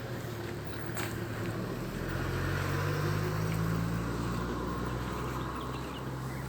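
Road traffic: a motor vehicle's engine hum and tyre noise passing, swelling about halfway through, with a sharp click about a second in.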